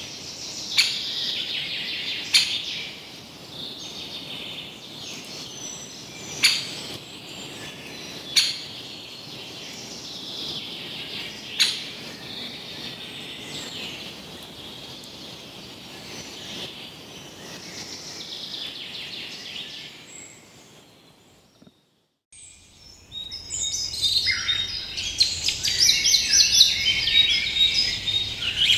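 Many birds chirping and calling together, with several sharp clicks in the first dozen seconds. The birdsong fades out about 21 seconds in, stops for a moment, then comes back louder and busier.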